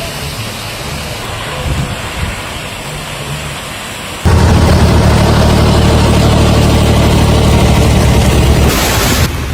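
Thunderstorm sound: steady rain, then about four seconds in a sudden, much louder deep rumble that lasts some four seconds before dropping away near the end.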